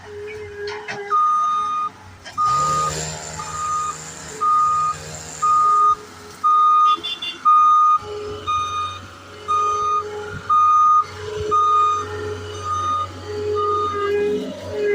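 Skid steer's reversing alarm beeping steadily about once a second over its running engine. A few seconds in, the engine grows louder and noisier for about three seconds as the machine works.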